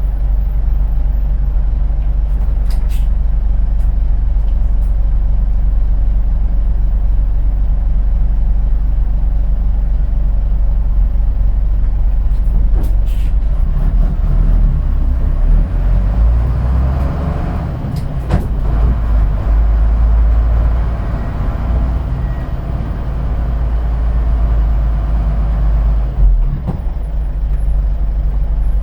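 Kojaku Kotsu bus no. 634's diesel engine heard on board: it idles steadily, then about halfway through the bus moves off and the engine and road noise grow louder for about ten seconds. After a thump near the end it settles back to a steady idle. A few short sharp hisses or clicks, such as from the air brakes, come through along the way.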